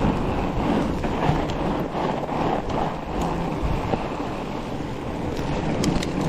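Wind buffeting the microphone and the fat tyres of a Trek Farley 7 rumbling over groomed snow as the bike rolls along. There are a few light clicks near the end.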